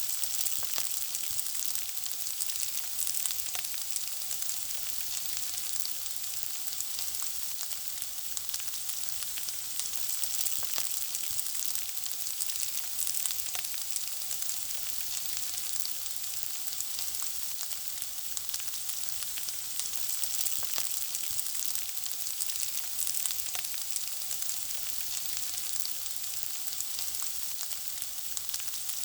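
Food frying in hot oil: a steady high sizzle, thick with small crackles and pops.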